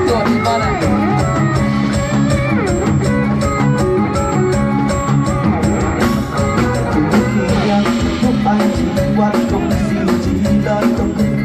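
Live band playing an instrumental passage with a steady drum beat, bass, guitar and keyboard through a loud sound system.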